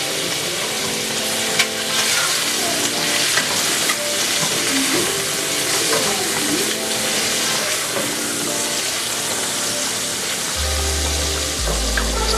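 Food sizzling in a hot frying pan, a steady crackling hiss, with a few sharp clicks of a utensil stirring. Soft background music with held notes plays underneath.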